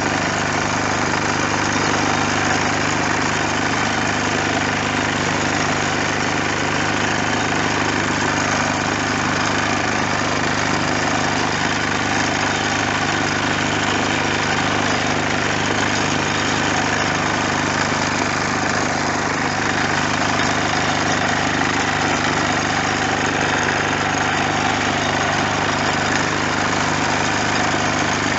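Bertolini 402 diesel engine running steadily at an unchanging speed.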